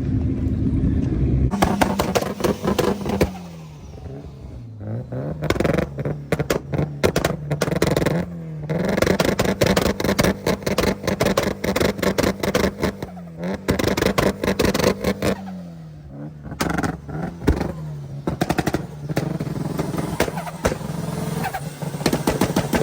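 A car engine running loudly with a rapid, crackling exhaust note. Its pitch sags and climbs back several times, as it is revved and let fall.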